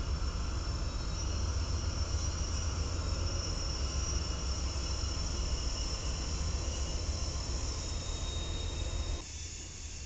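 Norfolk Southern diesel freight locomotives and their train rolling past close by: a heavy low rumble with a hiss and a few thin, steady high-pitched tones over it. The sound drops sharply about nine seconds in.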